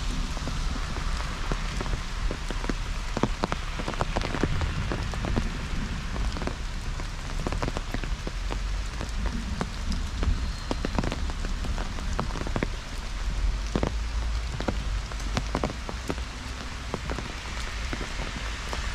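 Heavy rain falling, with a steady hiss and many sharp drops striking close by, over a low rumble.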